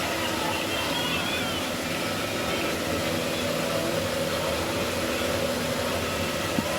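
Steady outdoor street noise with a constant engine-like hum running under it. There is a single short click near the end.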